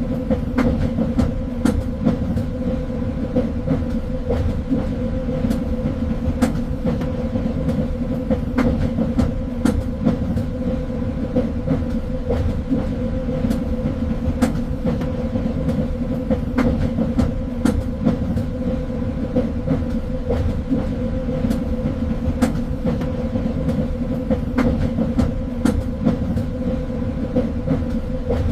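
Train running along the rails: a steady low rumble with a constant hum, and irregular clicks and knocks from the wheels on the track.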